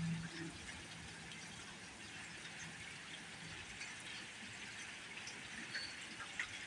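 Very heavy rain falling steadily: an even hiss with scattered drops ticking. A brief high ping comes about six seconds in.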